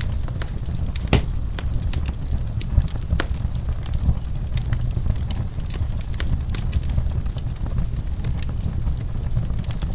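Wood fire in a fireplace crackling, with frequent sharp pops over a steady low rumble of the flames; the loudest pop comes about a second in.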